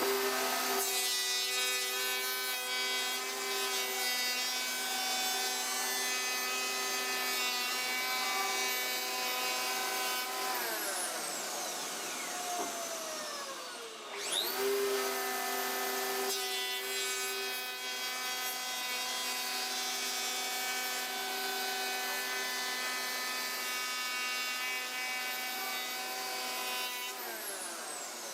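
Festool EHL 65 EQ electric planer and its linked dust extractor running at speed while planing wood, a steady high whine. About ten seconds in the motor is switched off and winds down with falling pitch. It spins up again about fourteen seconds in, runs steadily, and winds down once more near the end.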